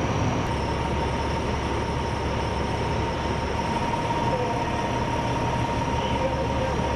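Steady heavy engine or machinery noise: a constant low rumble with a thin, unchanging high whine over it.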